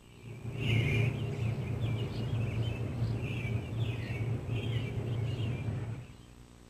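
Birds chirping in quick, repeated calls over a steady low hum of outdoor ambience. All of it cuts off abruptly about six seconds in.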